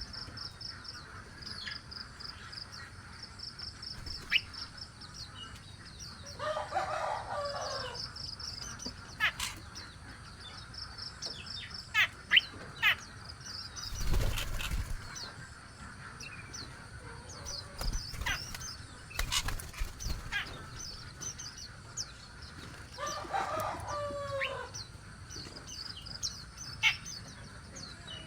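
Small birds chirping in rapid high runs, with wings flapping and a thump partway through. Twice, a longer, lower call that falls in pitch at the end stands out from the chirping.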